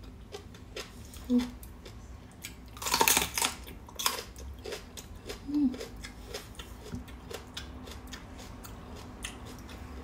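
A loud crunch as a raw green bell pepper is bitten about three seconds in, then crisp chewing with many small clicks.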